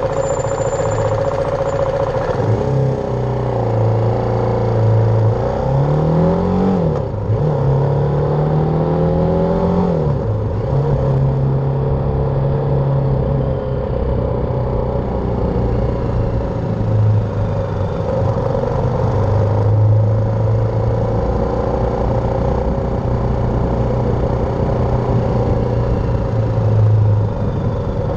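BMW G310R's single-cylinder engine running under way; its note rises and drops twice in quick succession a quarter to a third of the way in, as with gear changes, then holds fairly steady.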